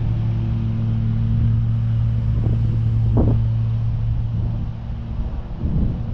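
Commercial mower engine running steadily at mowing speed with the deck blades mulching leaves. It makes a strong, even low hum, with a short louder noise about halfway through.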